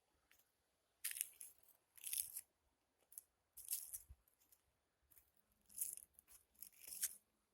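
Footsteps on stony forest ground: a handful of uneven steps, roughly a second apart.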